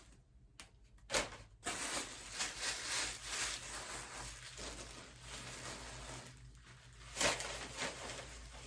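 Rustling and crinkling of packaging and clothing being handled and unwrapped, with sharper crackles about a second in and again near the end.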